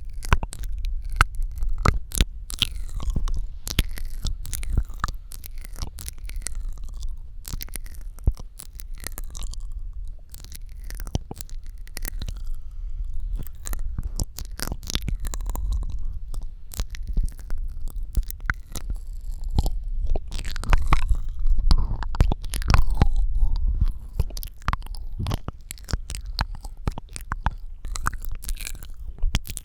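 ASMR mouth sounds close to the microphone: a rapid, irregular run of wet clicks, pops and smacks, with a steady low rumble underneath.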